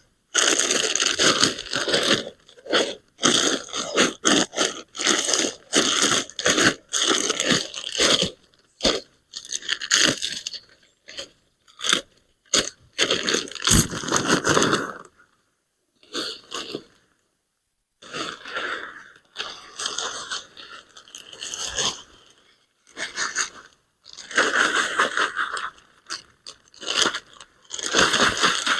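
Shovel working soil: repeated crunching and scraping strokes of a blade into dirt, in irregular bursts with short pauses between them.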